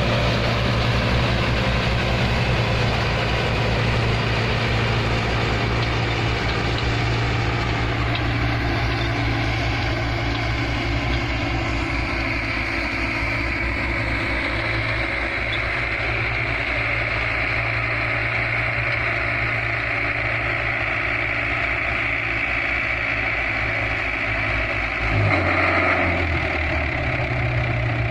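Tractor engine running steadily with straw-reaper machinery. About three-quarters of the way through there is a short louder rush, and the engine note dips for a couple of seconds before coming back up.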